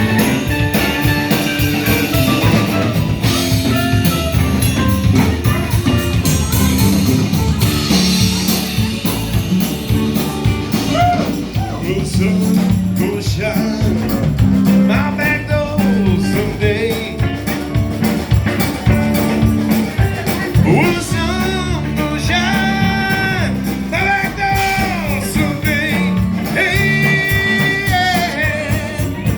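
A band playing a bluesy rock song, with singing and guitar over a steady rhythm section.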